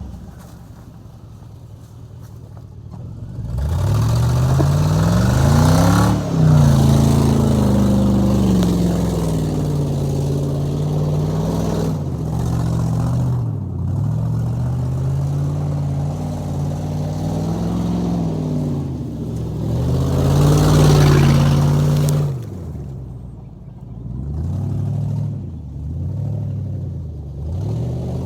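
Vehicle engine with a bad exhaust leak. It runs quietly for the first few seconds, speeds up, holds fairly steady, then rises and falls several more times, with a few short blips near the end.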